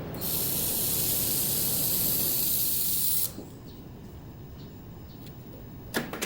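A steady, high-pitched hiss that lasts about three seconds and cuts off suddenly, followed by a few sharp clicks near the end.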